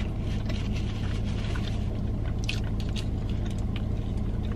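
A person chewing a mouthful of cheeseburger, with scattered small wet mouth clicks. A steady low hum of the car cabin runs underneath.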